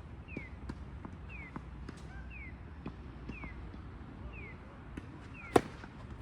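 A tennis ball struck once, sharp and loud, about five and a half seconds in. Behind it, a short, high, falling chirp repeats about once a second, with faint scattered clicks.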